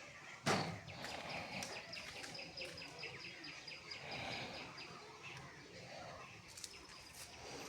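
A single sharp knock, then a bird chirping a quick run of repeated high notes over quiet outdoor background noise.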